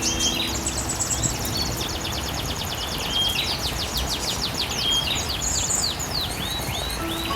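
Songbirds singing rapid strings of high, downward-sweeping chirps over the steady hiss of artificial rain spraying.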